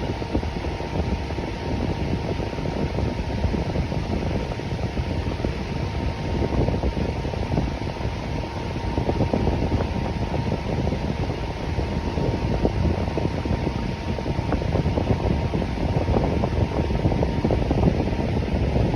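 Electric fan running steadily: an even, low rush of air with a faint steady tone above it.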